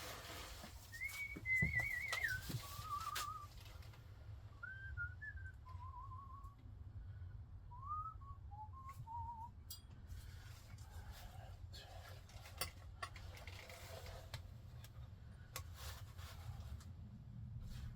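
A person whistling short phrases of a tune with a wavering pitch, which stops about ten seconds in. After that come scattered light clicks and knocks, over a low steady hum.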